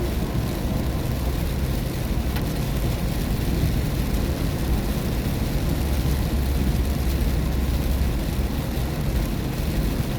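Steady road noise inside a car driving in the rain: the hiss of tyres on wet pavement and rain against the car over a constant low rumble.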